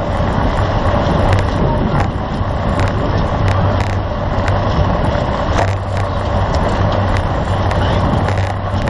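Steady rushing wind and road noise from a bicycle in motion, the wind hitting the microphone, with scattered short clicks.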